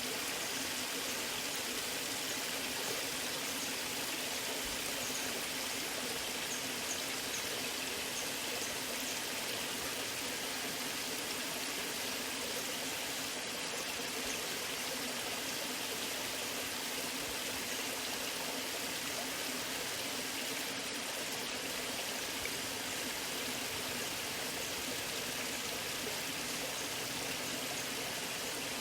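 Waterfall: water falling and rushing in a steady, even hiss, with little deep rumble.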